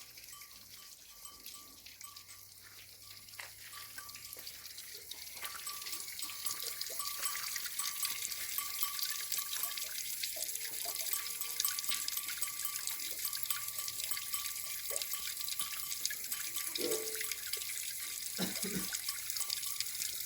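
Running water, a steady splashing hiss that builds up in the first few seconds and then runs on evenly.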